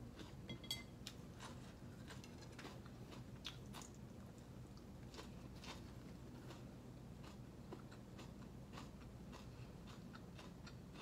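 Faint chewing and crunching of food, with irregular small clicks of the mouth.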